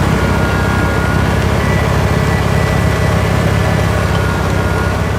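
Diesel tractor engine running steadily at a constant speed, with a faint high whistle over the low engine note.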